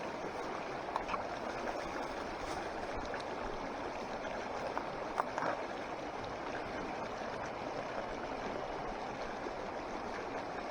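Steady rushing of a mountain stream flowing, with a few faint clicks over it.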